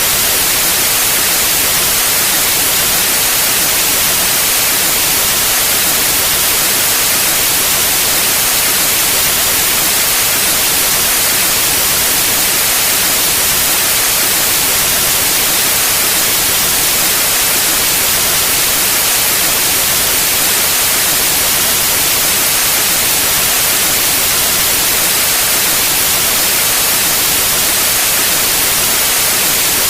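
Steady electronically generated white noise: a loud, even hiss across all pitches, brightest in the highs, unchanging throughout.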